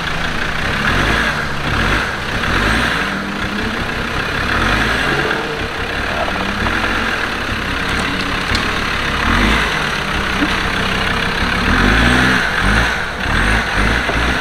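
Land Rover Defender engine running at low revs and repeatedly revving up and falling back, with rising and falling pitch.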